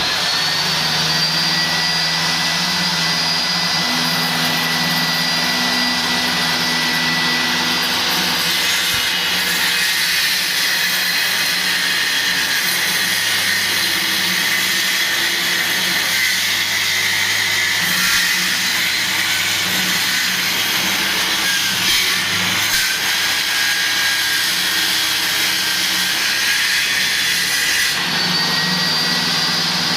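Loud, steady machine noise, like a motor running, with a high whine.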